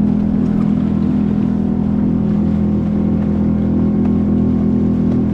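An engine running at a steady speed: an even, low drone with a strong hum that does not change.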